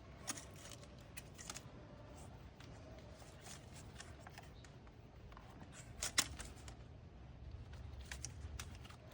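Scattered light clicks and rustles of plastic vacuum lines and hose connectors being handled and moved about in an engine bay, with the loudest pair of clicks about six seconds in.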